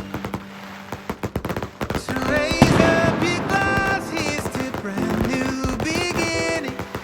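Fireworks going off: a run of sharp bangs and crackles, the loudest burst about two and a half seconds in, over an instrumental stretch of pop music.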